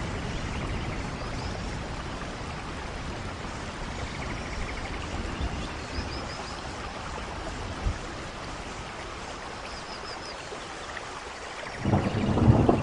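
Steady rush of rain and running water, with a few faint short high chirps in the middle. Near the end a loud low rumble starts suddenly.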